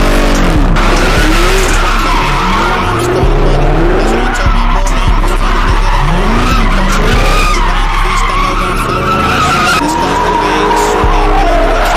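Car engines revving up and falling back over and over, several overlapping, with rising and falling pitch swells every second or two.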